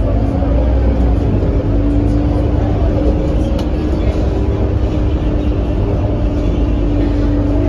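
Scania K230UB city bus's five-cylinder diesel engine running under way with a steady low drone and a steady hum held throughout.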